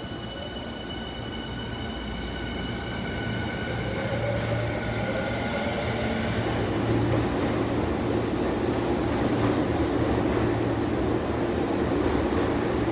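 Tokyu 5050 series electric train pulling away from an underground station platform and gathering speed. For the first five or six seconds a whine of several high tones from its traction motor drive is heard, with one pitch rising. Then a rumble of the wheels on the rails grows as the cars pass faster, and the sound gets steadily louder.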